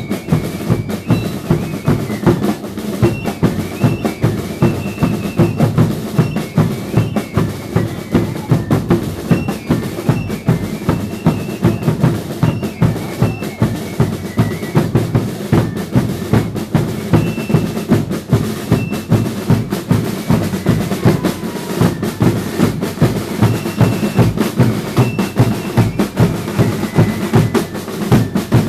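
Drums of a religious dance band, bass drums and snare drums, beating a steady, fast rhythm, with brief faint high tones above it.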